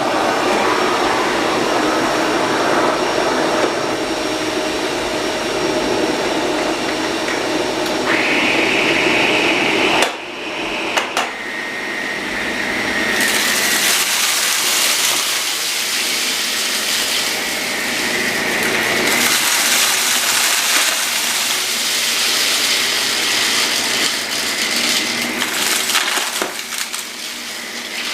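Electrolux vacuum cleaner running steadily while sucking up spilled debris. A whistle comes in partway through, and after a short dip the sound turns brighter and hissier.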